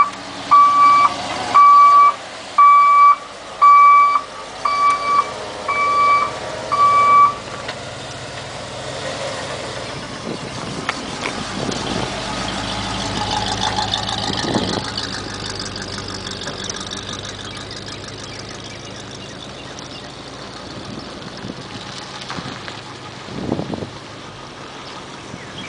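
A truck's electronic warning beeper sounds about nine times, a bit more than once a second, and stops about seven seconds in. The 1988 GMC Sierra rescue truck's 350 V8 then runs steadily, swelling a little in the middle.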